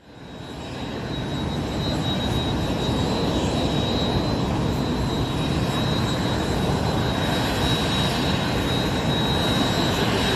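Airbus Eurocopter EC135 T1 twin-turbine helicopter on approach, with steady engine and rotor noise and a steady high whine above it. The noise fades up from quiet over the first two seconds, then holds level.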